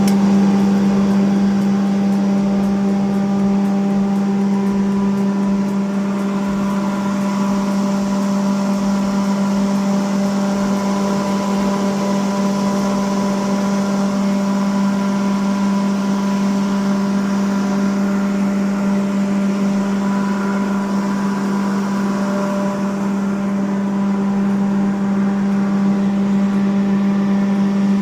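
Domestic flour mill (aata chakki) with its 2 HP single-phase motor running empty at full speed: a loud, steady hum with one strong tone. It shows the mill running freely once the jammed stone has been cleared.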